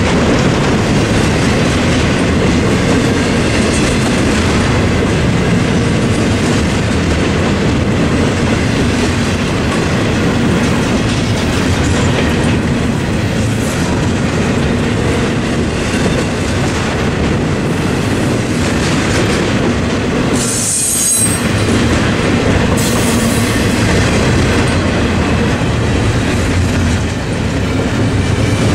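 Double-stack intermodal freight train rolling past a level crossing: a steady rumble of container well cars with wheel clatter over the rails. About twenty seconds in, a short high-pitched wheel squeal.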